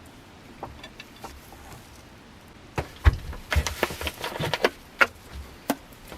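Workshop handling clatter: a few faint ticks, then a run of knocks and clinks about three seconds in, and two sharper single knocks near the end.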